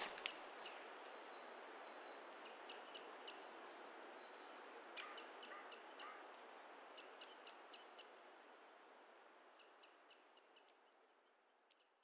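Faint outdoor ambience with small birds chirping in four short bursts over a steady hiss, fading out to silence near the end.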